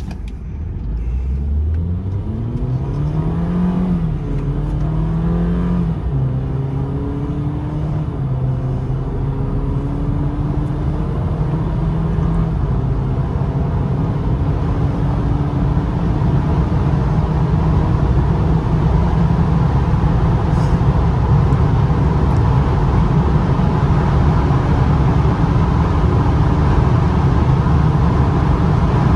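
BMW 320i ED's 1.6-litre turbocharged four-cylinder engine accelerating hard from standstill, its pitch climbing and dropping at gear changes about four and six seconds in. It then rises slowly in the higher gears as wind and tyre noise build.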